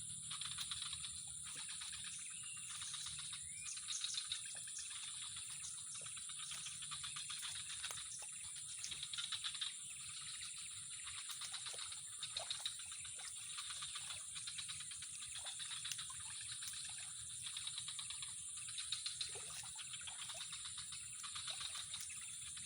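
Steady high-pitched insect chorus, with scattered short chirps and small clicks over it.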